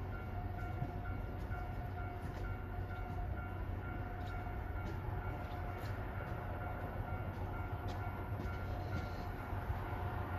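Steady low rumble of a diesel train approaching from a distance along the line, with a faint steady tone over it and a few light clicks.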